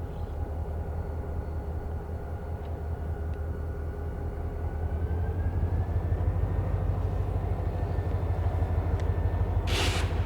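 EMD diesel-electric locomotive engine running with a steady low rumble; it gets louder and rises slightly in pitch about halfway through as it throttles up. A short burst of hiss comes near the end.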